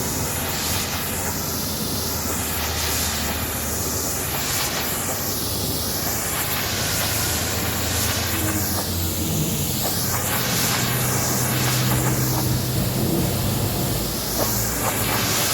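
High-pressure water jet spraying against a truck's body, a steady hiss that sweeps as the nozzle moves, over a low steady machine hum.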